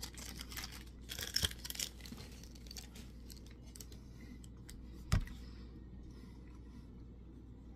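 A man eating a raspberry fruit-and-grain bar close to the microphone: soft chewing, with a cluster of crackly noises about a second in and a single sharp knock about five seconds in.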